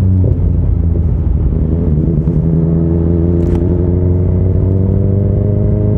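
BMW S1000XR and Yamaha FJR1300 inline-four motorcycle engines running loud and steady at held revs, the pitch dipping and then climbing slightly in the first second or two. One short sharp pop about three and a half seconds in.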